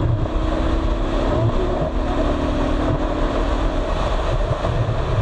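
Royal Enfield Thunderbird 350X's single-cylinder engine running steadily, heard through a noisy, wind-buffeted microphone.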